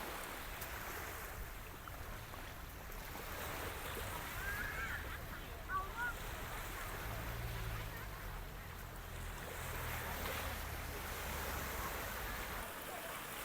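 Sea surf washing onto a sandy beach as a steady hiss, with a low wind rumble on the microphone that drops away near the end.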